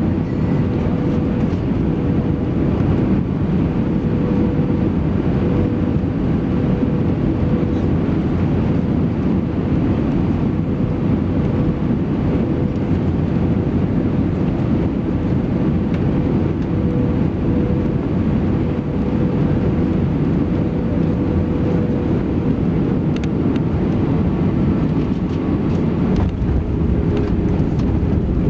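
Steady cabin noise inside an Airbus A320-214 heard from a window seat: the CFM56 engines and airflow making an even rumble, with a thin steady hum above it.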